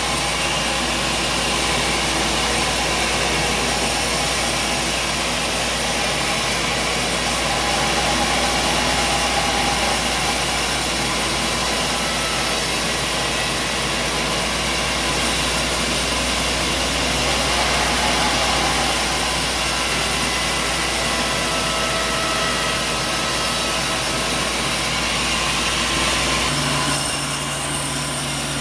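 Sawmill machinery running steadily, a loud, dense mechanical noise with no breaks. The sound changes abruptly near the end.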